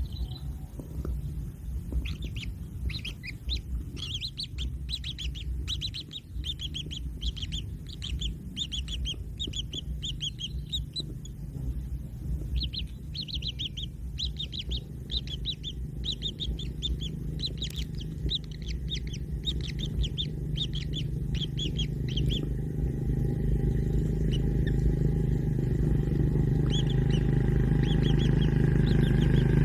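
Kingfisher chicks giving rapid, high chirping calls in quick runs, which stop about two-thirds of the way through. Under them runs a steady low rumble that grows louder near the end.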